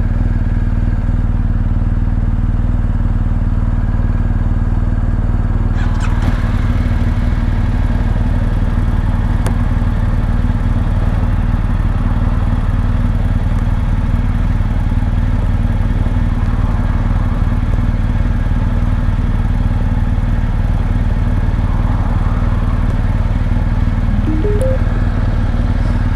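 BMW motorcycle engine running steadily at a constant pitch, with a rise in broader noise about six seconds in.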